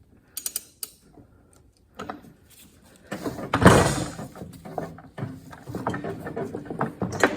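Hand ratchet clicking a few times, then, about three seconds in, a loud scraping creak that runs on with more creaks and clicks as the nut is cranked down under heavy force to press the new fifth gear onto the transmission's countershaft.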